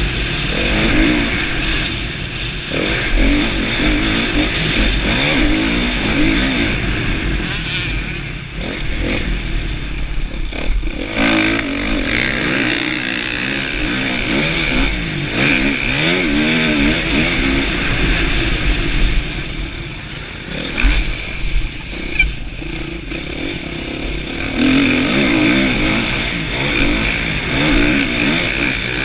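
Kawasaki KX450F motocross bike's single-cylinder four-stroke engine being ridden hard, its pitch rising and falling repeatedly with the throttle. A few sharp knocks come about two-thirds of the way through.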